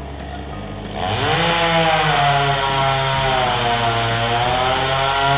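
Petrol chainsaw revved up to high speed about a second in and held there, its pitch sagging a little in the middle and climbing again.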